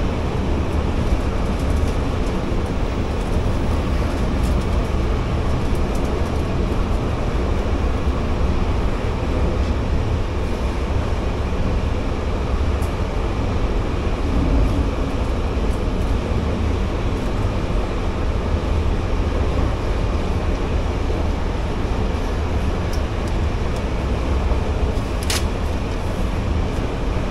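Steady low rumble and running noise of a passenger train, with one sharp click about 25 seconds in.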